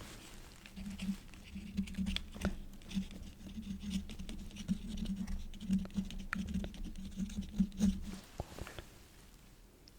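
Quill pen scratching on paper in short strokes, with many small ticks, stopping about eight seconds in.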